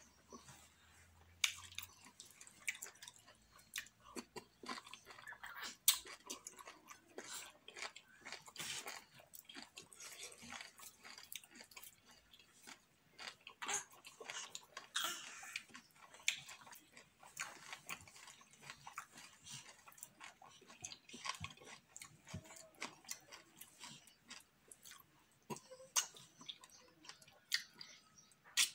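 Close chewing of fufu with okro and ogbono soup: a run of short, irregular mouth clicks and smacks.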